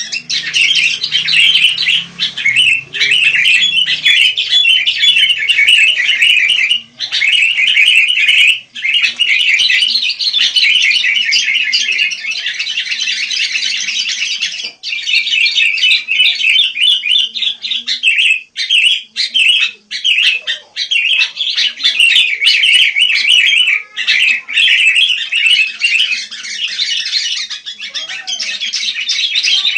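Sooty-headed bulbul (kutilang) chirping and chattering almost without pause: a dense run of rapid high notes, broken only by a couple of brief gaps.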